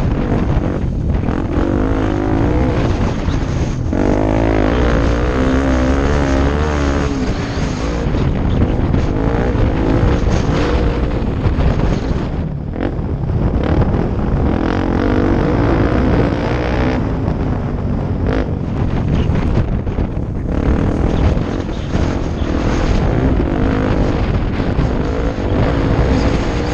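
Off-road motorcycle engine running at constantly changing revs as it rides, with wind buffeting the microphone.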